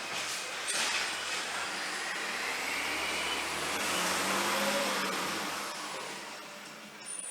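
A road vehicle passing by, its noise swelling to a peak about four to five seconds in and then fading.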